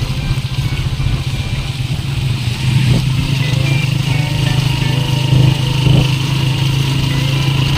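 Motor vehicle engine running steadily while travelling on the road, a loud low hum that grows a little louder about three seconds in.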